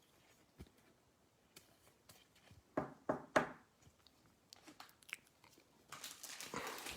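Trading cards and a foil card pack being handled: scattered soft clicks and slides, three short crinkly rustles about halfway through, and a denser rustle near the end.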